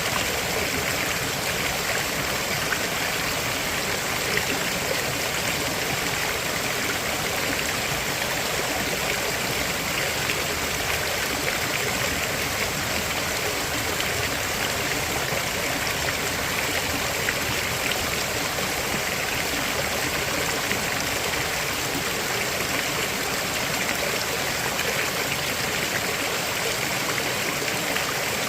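River water flowing over stones, a steady rushing and babbling that does not change.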